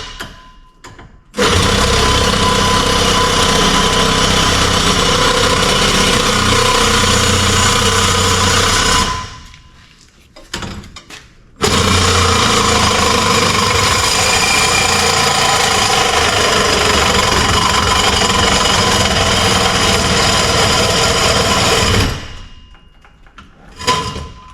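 A handheld power tool working on steel exhaust pipe. It runs in two long stretches, about eight and ten seconds, each winding down at its end.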